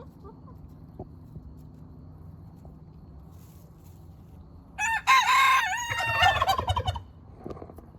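A rooster crowing once, about five seconds in: a short first note followed by a long wavering call that cuts off after about two seconds.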